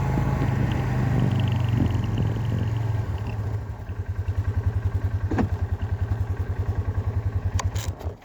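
An engine idling with a fast, even low putter that grows more distinct a few seconds in, with a few light clicks over it; it starts and stops abruptly.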